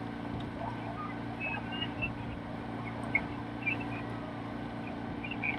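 Motor launch's engine running at a steady hum, with a few faint short high chirps over it.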